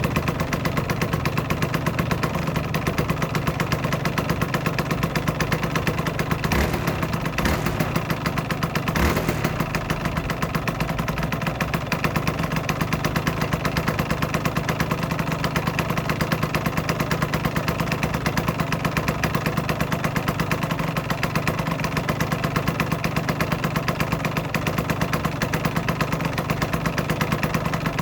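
Aprilia RS125's 125 cc single-cylinder two-stroke engine idling steadily with a fast, even pulse. A few light clicks come between about six and nine seconds in.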